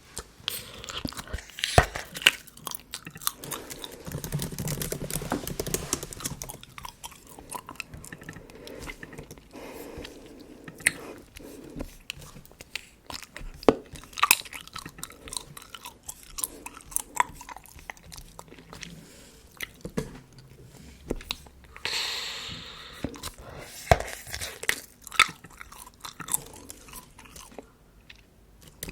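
Bubble gum chewed close to the microphone: irregular wet smacks and clicks, with a longer noisy rush about twenty-two seconds in.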